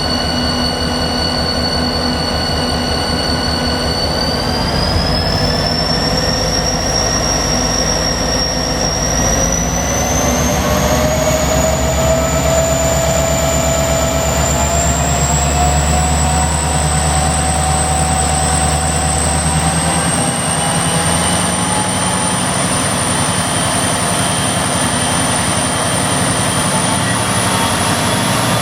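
C class diesel-electric locomotive's turbocharged EMD two-stroke V16 being throttled up notch by notch: the engine runs loud and steady while its turbocharger whine climbs in a series of steps, about five times.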